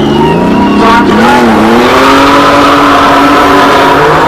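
Twin-turbo 4.2 L V6 of a Nissan Skyline GT-R R34 race car accelerating hard. Its pitch climbs, drops sharply about a second in at a gear change, then climbs steadily again.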